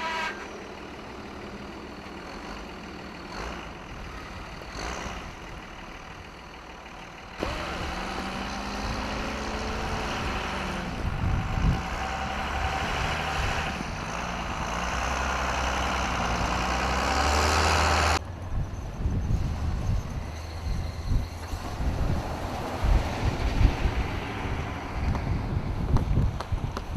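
Heavy trucks' diesel engines running, with a steady low hum and a rush of wind noise over it; the sound changes abruptly twice, getting louder about a third of the way in and dropping back near two-thirds.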